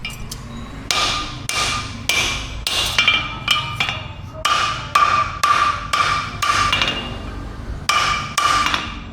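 Hammer blows on metal on an anvil in a steady series of about fifteen ringing strikes, roughly two a second, with a short pause about seven seconds in.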